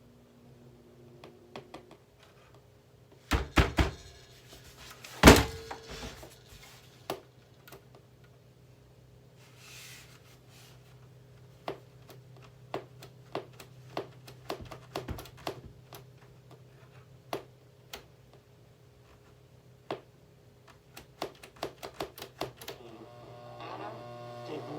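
Plastic clicks and knocks from a boombox being handled and taken apart: a few loud knocks about three to four seconds in, the loudest about five seconds in, scattered clicks after, and a quick run of clicks near the end, over a steady low hum.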